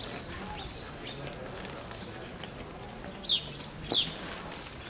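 A bird gives two short, sharp, high chirps that fall in pitch, about three and four seconds in, over a low murmur of street sound.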